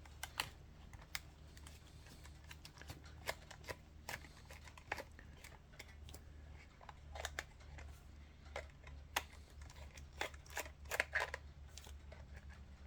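Irregular small clicks and taps of a screwdriver and camera body parts being handled while a DSLR is taken apart, over a faint low steady hum.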